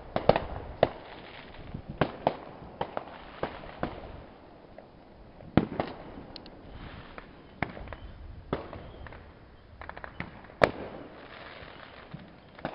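Aerial fireworks going off: a string of sharp bangs and pops at irregular intervals, one to three seconds apart, with the loudest bang about two seconds before the end.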